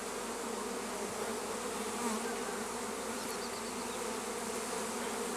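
Many honey bees flying around a hive box, buzzing in a steady, even drone.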